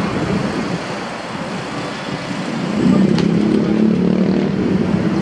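City street traffic noise, with a vehicle engine growing louder a little under three seconds in and running on steadily.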